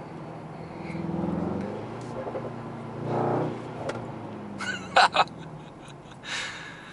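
Mercedes-AMG GT 63 S's 4.0-litre twin-turbo V8 heard from inside the cabin while the car slows in city traffic. The engine note swells about a second in and again around three seconds, then two sharp cracks come close together about five seconds in, with another short burst near the end.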